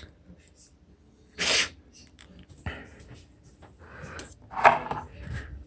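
A dog sneezing once, sharply, about one and a half seconds in, followed by softer short sounds.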